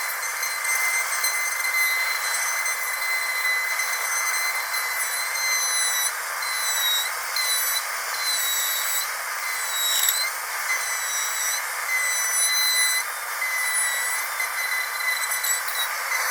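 Dentist's drill running with a steady high-pitched whine over a hiss, its pitch dipping briefly a few times, most sharply about ten seconds in.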